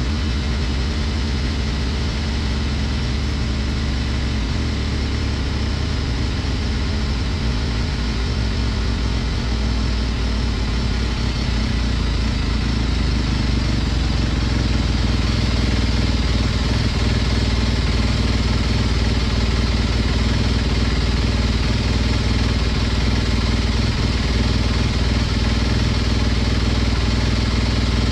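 2021 Sherco 300 SEF Factory's single-cylinder four-stroke engine idling steadily while it warms up the oil before an oil change. About ten seconds in, the idle gets a little louder and steadier.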